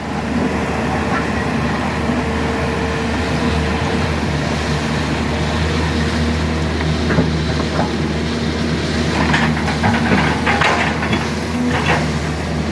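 Sany SY210C-9 excavator's diesel engine running steadily under working load, with a few knocks and scraping sounds around the last third.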